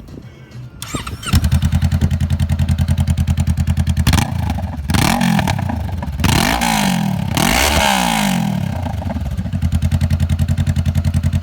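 Honda CB500X 471 cc parallel-twin engine, breathing through an aftermarket dual straight-through exhaust, starts about a second in and idles with an even, pulsing beat. It is blipped up in several quick revs around the middle, then settles back to idle.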